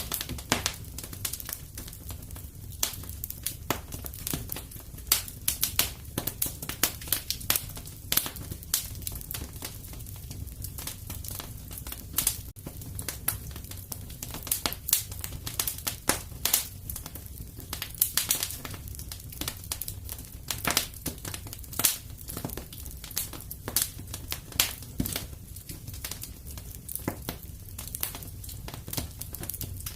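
Fire crackling in a fireplace, with many irregular sharp pops and snaps over a low steady rumble.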